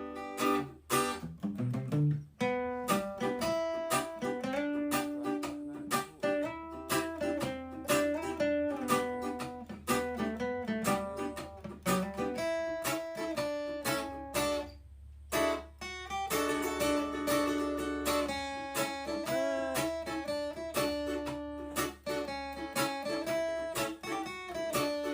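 Music: an acoustic guitar picking a melody, with a short break about fifteen seconds in.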